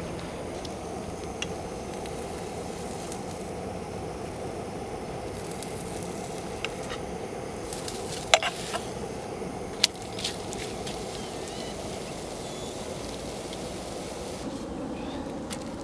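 Portable gas burner running steadily under a pan of frying pancakes, with a few sharp clicks or knocks, the loudest about eight and ten seconds in.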